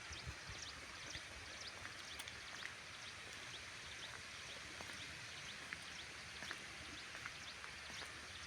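Running water: a steady soft hiss with many small, quick droplet plinks scattered through it.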